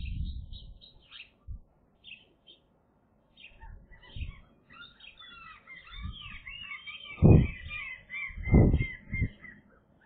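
Birds chirping in short high calls, sparse at first and then a quick continuous run in the second half. Dull low thumps sound through it, the loudest a little after 7 seconds and twice more near the end, like knocks on the nest or microphone.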